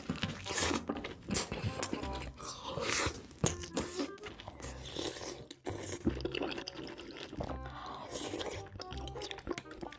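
Close-miked eating: repeated crisp crunches and bites with chewing, over quiet background music.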